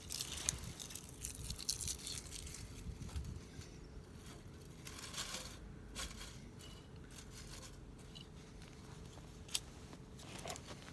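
Irregular scraping and crinkling with a few sharp clicks, from lighting a campfire with a ferro-rod fire starter and tinder.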